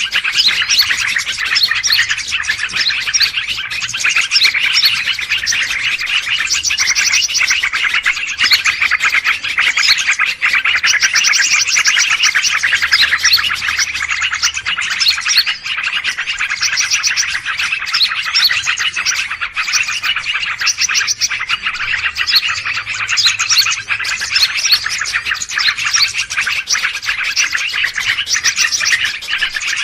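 Dense, unbroken chorus of many small birds chirping and chattering over one another, a noisy bird-lure recording meant to draw wild birds in.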